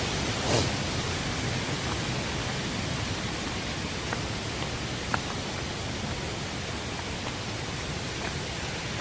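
Steady rushing of a fast-flowing waterfall stream over rocks, an even hiss, with a few faint short ticks.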